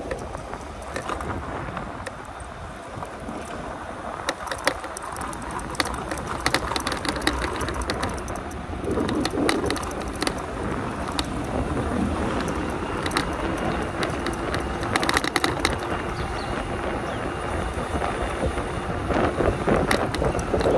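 Ride noise from an e-bike on 20x4 fat tyres: wind over the microphone and a low tyre rumble on the road, with many clicks and rattles in clusters as the bike goes over bumpy pavement.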